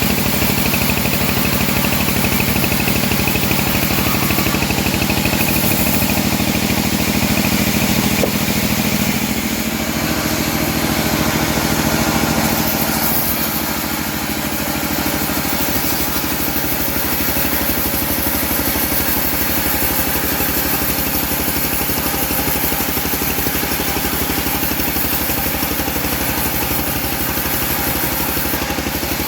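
Engine of a homemade bandsaw mill running steadily, its note shifting about ten seconds in.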